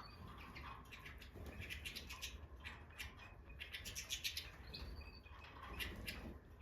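Goldfinches (Stieglitz Major, the large race of European goldfinch) giving quick runs of short chirping calls, busiest in the middle of the clip.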